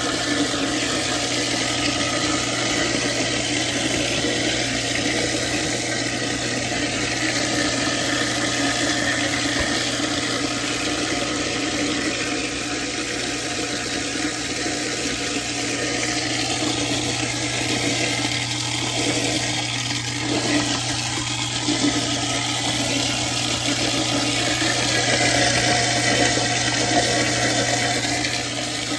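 Garbage disposal running with cold tap water pouring into it: a steady motor hum under the rush of water as it grinds down food waste from the sink.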